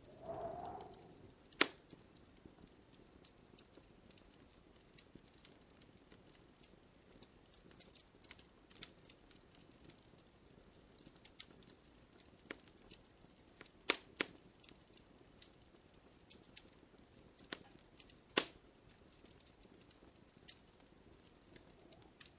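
Wood fire crackling in a fireplace: a steady scatter of small ticks and crackles, with three louder sharp pops about a second and a half in, around fourteen seconds in and around eighteen seconds in.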